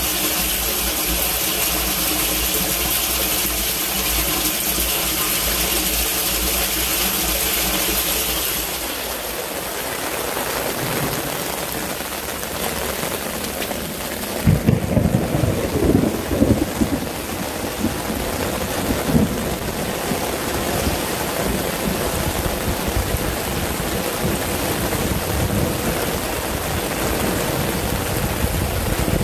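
Torrential rain with storm water rushing, carrying a steady mechanical hum that stops about eight seconds in. Around the middle comes a cluster of loud, irregular low rumbling thumps.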